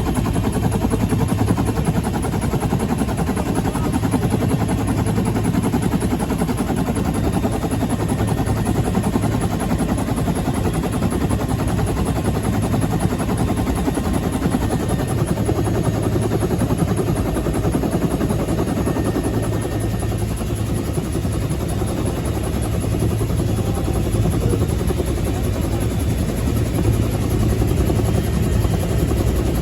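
Bell UH-1H Huey helicopter heard from inside its cabin in flight: the loud, steady, rapid thumping of its main rotor over the drone of its Lycoming T53 turbine.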